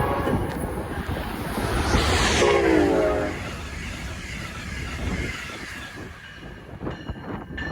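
Passenger train passing on the Northeast Corridor, its wheels and cars rumbling and rushing on the rails. A horn chord fades out just after the start, and another sounds about two seconds in, its pitch dropping as the train goes by. A few sharp clicks come near the end.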